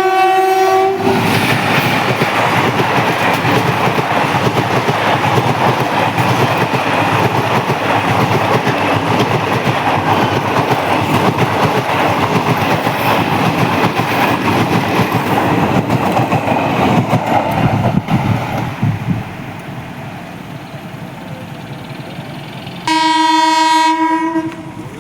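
An Indian Railways train sounds its horn briefly at the start, then passes at speed with a loud, steady rumble of wheels on the rails for about 18 seconds before dropping away. Near the end a horn blows again for about a second and a half.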